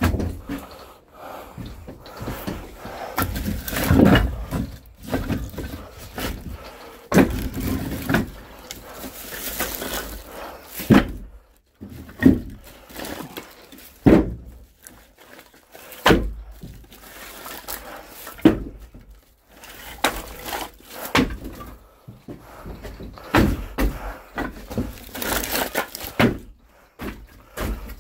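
Firewood being unloaded and stacked: a string of wooden thunks and knocks, one every couple of seconds, with rustling and scraping between them.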